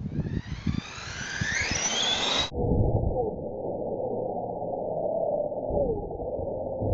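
Electric RC truck's RS540 brushed motor and gears whining, rising steadily in pitch as the truck accelerates. About two and a half seconds in, the sound cuts abruptly to a muffled, much lower version with slowly sliding tones.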